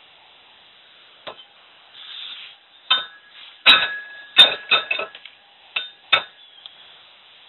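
Hard metal parts being handled: a string of sharp clinks and knocks, some ringing briefly, with a short scrape about two seconds in.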